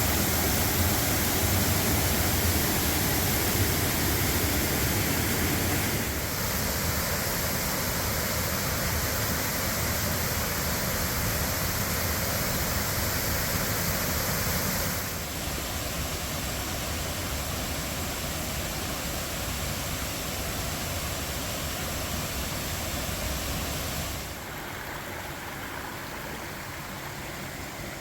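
Waterfall in high flow, swollen by winter thaw and heavy rain, pouring with a steady rush of water. The loudness drops abruptly in steps about six, fifteen and twenty-four seconds in.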